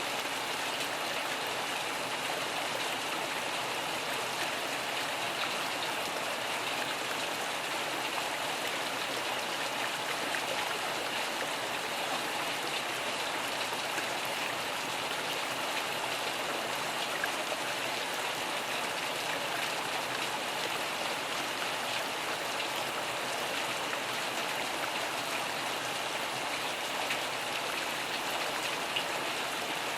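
Steady rain falling, an even hiss of drops with faint scattered ticks throughout.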